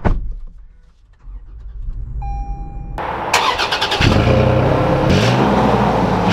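The 2021 Toyota 4Runner's 4.0-litre V6 is started: a short beep, the starter cranking about three seconds in, then the engine catches and revs up and down.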